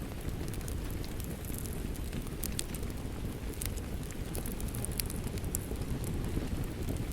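Wood fire crackling, with scattered sharp pops, over a steady low rumble of rain.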